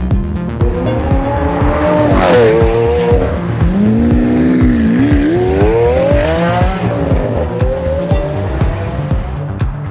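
Lamborghini Aventador's 6.5-litre V12 engine revving, its pitch rising and falling several times, with a sharp drop in pitch about two seconds in. Electronic music with a steady beat plays underneath.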